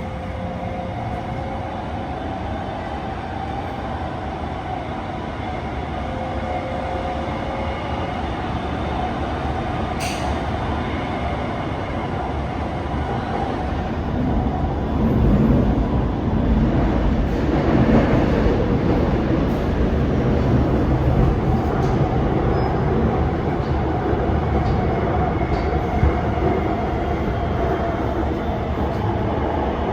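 SMRT R151 metro train running, a steady rumble of wheels on the rails with a few faint steady tones over it. It gets louder about halfway through.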